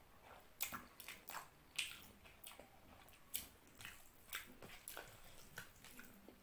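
Close-miked wet chewing of a mouthful of mutton curry and rice, with irregular sharp lip smacks and mouth clicks about two a second.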